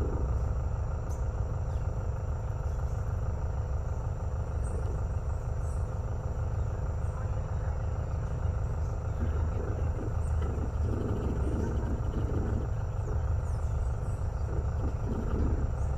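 Choco toucan giving a series of rough, croaking calls in the second half, over a steady low rumble and faint steady insect tones.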